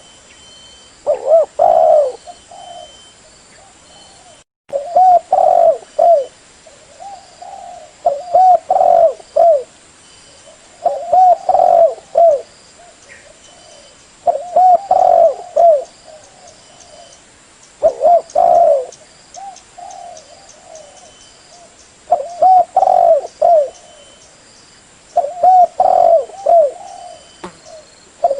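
Spotted dove (terkukur) cooing: a phrase of a few short, low coos repeated about every three to four seconds, eight phrases in all, over a faint steady high-pitched hum.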